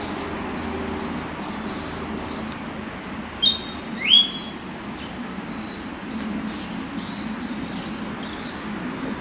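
Male narcissus flycatcher singing: a short loud phrase of clear whistled notes about three and a half seconds in, one of them a rising whistle, over faint, evenly repeated high chirping.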